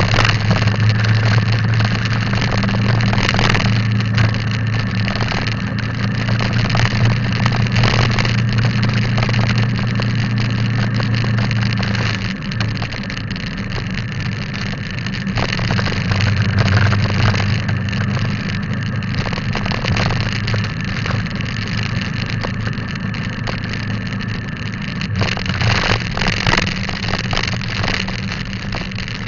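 Motorcycle engine running steadily while riding, with a constant rush of road and wind noise. The engine note eases off about twelve seconds in.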